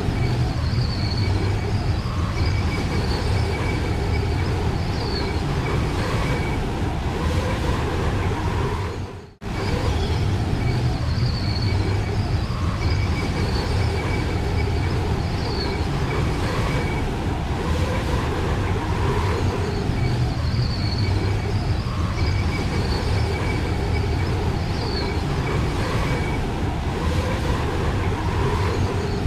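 Steady roar of strong blizzard wind, with a deep rumble, cut by a brief dropout about nine seconds in.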